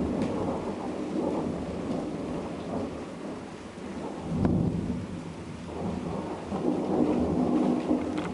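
Thunder rumbling continuously over steady rain in a thunderstorm, the rumble swelling about halfway through and again near the end.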